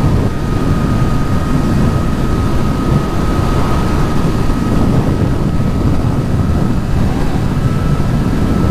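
Kawasaki Z900 motorcycle riding at a steady speed: a loud, even rush of wind buffeting the camera mic over the inline-four engine, with a faint steady high whine.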